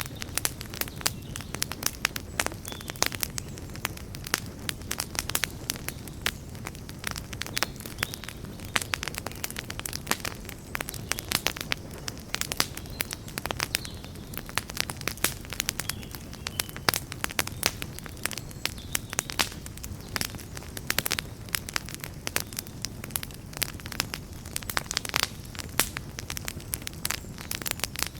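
Wood campfire burning with dense, irregular crackles and pops over a steady low rumble of flame.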